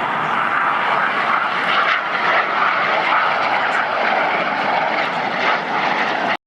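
Steady jet noise from BAE Hawk T1 trainer jets and their Rolls-Royce Adour turbofan engines flying the display overhead. The noise is a dense rush that cuts out suddenly right at the end.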